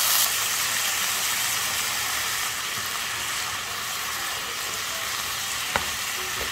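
Bean sprouts, thin-sliced pork belly and garlic sizzling in a frying pan as they are stir-fried, a steady hiss. There is one sharp tap near the end.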